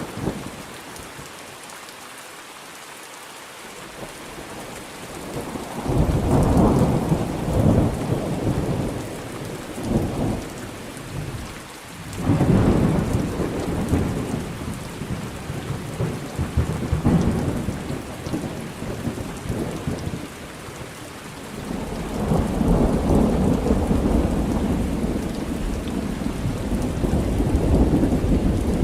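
Thunderstorm: steady rain with rolling thunder. The first few seconds are rain alone, then thunder rumbles in about six seconds in, again at about twelve seconds, and a long rolling peal builds from about twenty-two seconds on.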